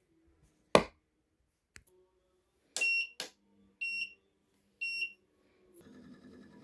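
Three short electronic beeps about a second apart, after a sharp click.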